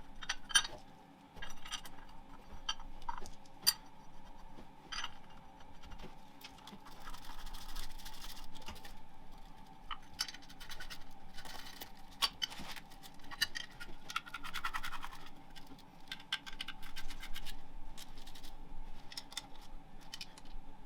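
A handmade steel mounting plate being fitted by hand: irregular scraping and light metallic clicks and clinks as the metal parts and bolts are handled and set in place.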